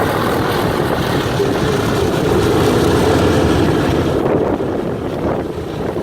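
Piston engines of a propeller aircraft running steadily and loudly, with wind on the microphone. About four and a half seconds in, the sound turns duller and a little quieter.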